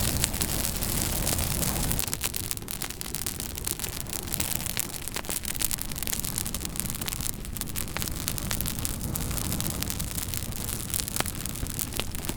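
Campfire crackling, with frequent sharp pops and snaps over a steady hiss of burning. The hiss drops a little about two seconds in.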